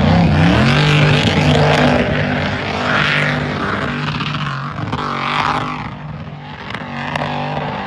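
A car engine running with a steady low hum, briefly revved just after the start.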